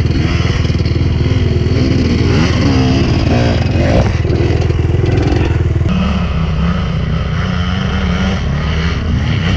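Enduro dirt bike engine running and revving up and down as it is ridden over rough trail, its pitch rising and falling; the engine note changes about six seconds in.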